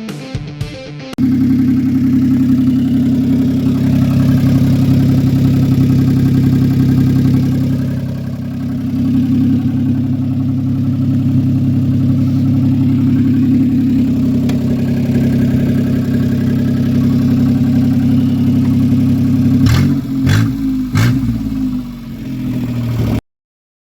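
Asia Towner's small three-cylinder engine running through a motorcycle muffler fitted to its exhaust, idling steadily with a short dip partway through. It gets a few quick blips of the throttle near the end, and then the sound cuts off suddenly.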